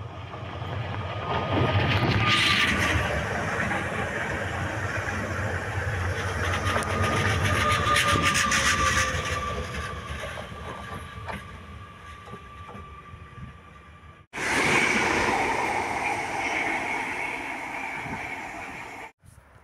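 Electric multiple-unit passenger trains passing close by: wheels clattering over the rail joints, with a steady high whine over the rumble. The sound cuts off abruptly about 14 seconds in and jumps to another passing train, then cuts again just before the end.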